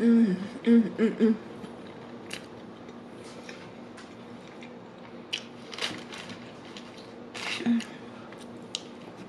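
A woman's closed-mouth "mmm" of enjoyment over the first second and a half while chewing a sandwich, followed by the wet clicks and crackles of her chewing, a few of them sharper.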